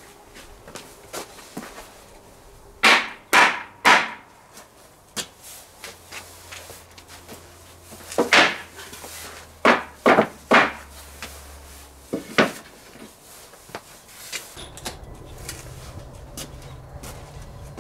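Hard strikes on wood: three about half a second apart, then after a pause several more in a similar run, with lighter knocks and taps between.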